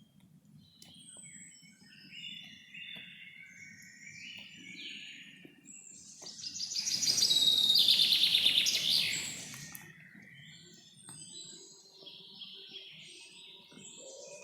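Several birds singing and chirping in a forest, with short phrases scattered throughout. About halfway through, one much louder, rapid trilling song swells up for about three seconds, then fades back to the quieter calls.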